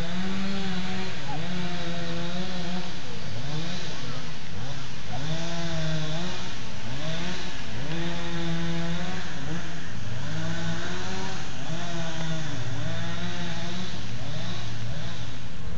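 A small engine revving up and down again and again, with held steady stretches between the revs.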